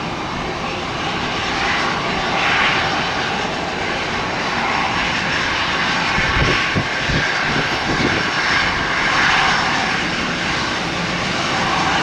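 Bombardier Global Express business jet's engines at takeoff power, a steady jet roar as it departs. The roar swells a little after the first couple of seconds, with low rumbling surges around the middle.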